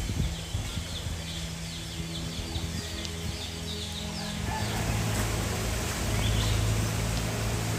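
Birds chirping rapidly over a steady low hum; the chirping fades after about three seconds while the hum grows louder about halfway through.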